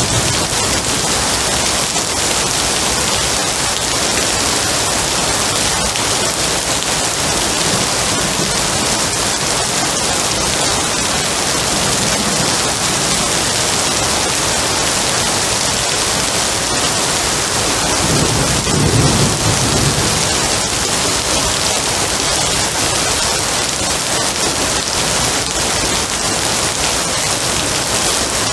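Steady, heavy rain falling on surfaces, with a low roll of thunder swelling about two-thirds of the way through.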